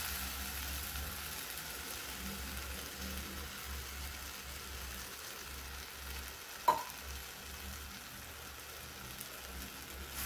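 Nendran banana pieces sizzling quietly in hot ghee in a steel pot, under a low hum. One sharp knock about two-thirds of the way through.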